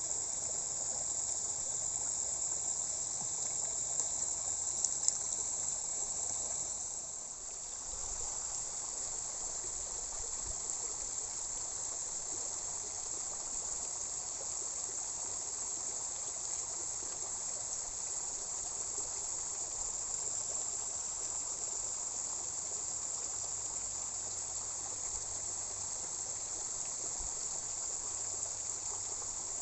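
Steady high-pitched chorus of crickets over an even hiss of water. The sound dips briefly about seven seconds in.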